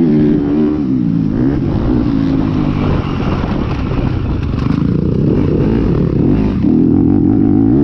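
450-class motocross bike engine at race pace, its revs swinging up and down as the throttle is worked. The note turns rougher and noisier through the middle, then settles back to steady high revs near the end.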